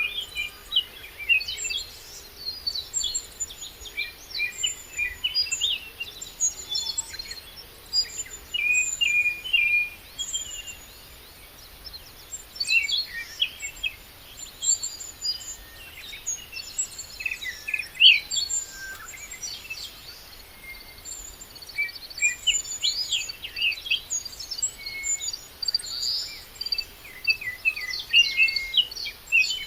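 Many birds chirping and singing at once, a busy chorus of short high calls and trills that never pauses.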